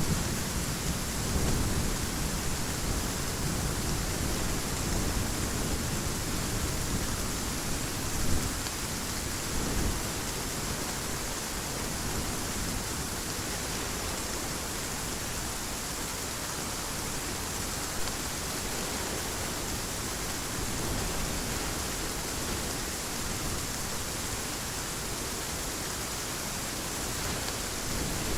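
Steady heavy rain, with a low rumble of thunder fading away over the first ten seconds or so.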